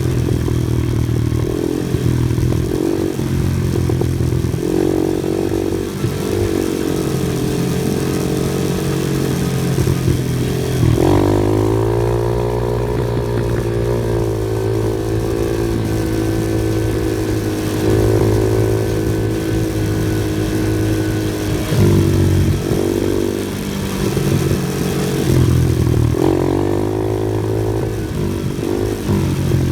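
An off-road vehicle's engine running under load over rough terrain, its revs rising and falling with the throttle, with sharp climbs about a third of the way in and again near the end.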